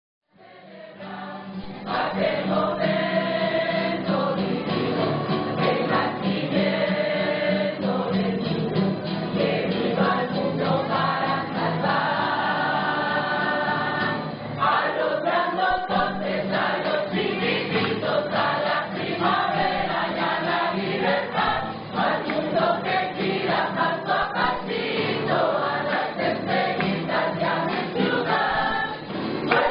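A choir singing, with a steady low note held beneath the voices; the sound fades in over the first two seconds.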